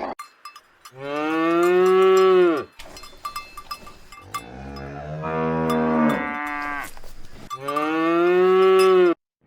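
A cow mooing three times in long, drawn-out calls, with light clinking between the calls.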